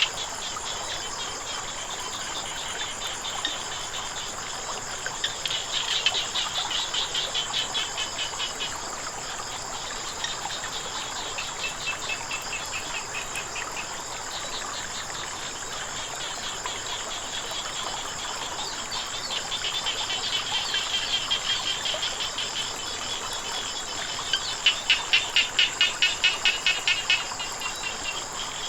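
Frogs calling in bouts of rapid pulsed calls, the loudest bout near the end, over a steady high-pitched insect trill and the even hiss of flowing water.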